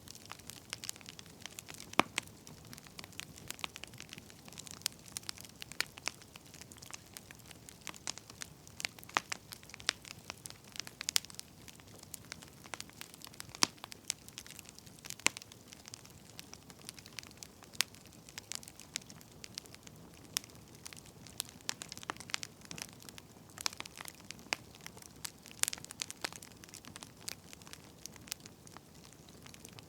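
Firewood burning: irregular sharp crackles and pops, a few much louder snaps among them, over a soft steady hiss.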